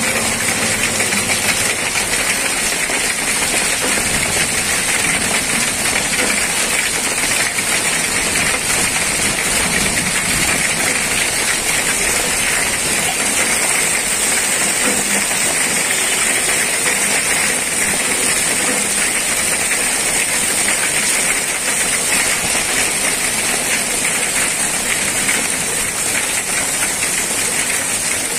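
Heavy rain falling: a steady, even hiss with no separate impacts standing out.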